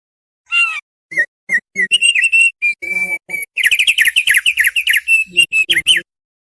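Thick-billed white-eye (opior paruh tebal) singing. A few separate high chirps build into a fast, unbroken twittering warble about three and a half seconds in, which cuts off abruptly near the end.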